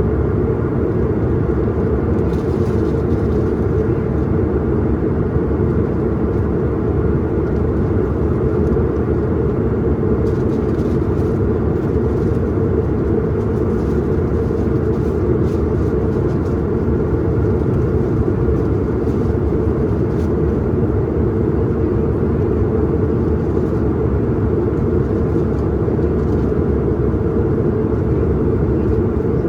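Steady low drone of an airliner cabin in flight during the descent: engine and airflow noise heard from a window seat.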